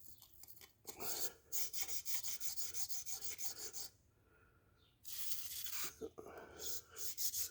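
A bristle brush scrubbing rust out of a passage in a Chevy 283 cast-iron engine block, in quick back-and-forth strokes of about five a second, stopping for about a second midway and then starting again.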